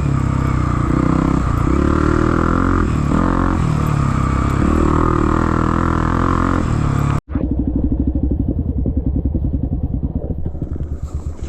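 Trail motorcycle engine revving, its pitch rising and falling. The sound cuts out for an instant about seven seconds in, and an engine then chugs at low revs with a rapid, even pulse.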